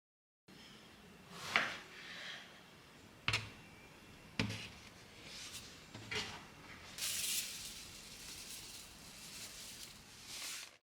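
Quiet kitchen handling sounds: several light knocks and clicks spread over a few seconds, with short soft rustling between them.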